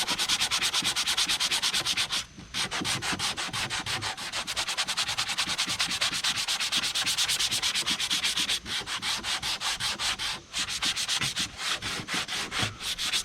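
Sandpaper rubbed by hand over the frayed paper edges of a drywall patch, in fast back-and-forth strokes, several a second, to knock down the rough paper. There are short pauses about two seconds in and twice more past the middle.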